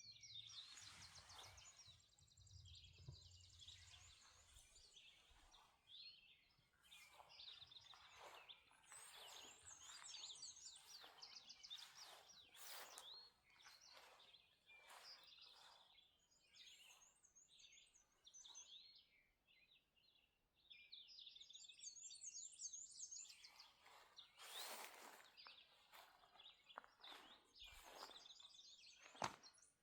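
Faint dawn chorus of several songbirds: overlapping chirps, trills and fast repeated high notes, dropping away briefly just after the middle before picking up again.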